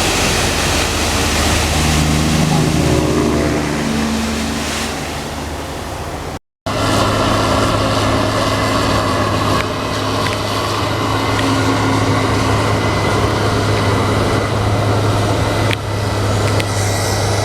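Heavy diesel farm machinery running, mixed with wind noise, the engine's pitch shifting over the first few seconds. The sound cuts out briefly about six seconds in, then a steady low diesel engine hum takes over.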